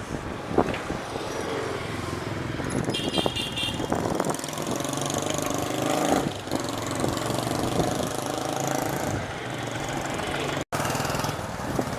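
Road traffic with motor vehicle engines running and passing, heard from a moving bicycle. A short high pulsing sound about three seconds in, and the sound cuts out for an instant near the end.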